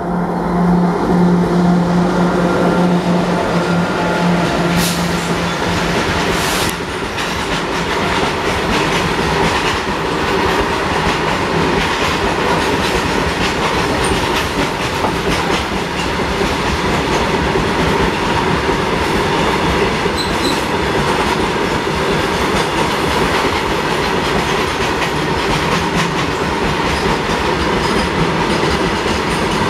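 Indian Railways WAG-7 electric locomotive passing close with a steady hum for the first several seconds, followed by a long freight train of open wagons rolling past, wheels clicking over the rail joints.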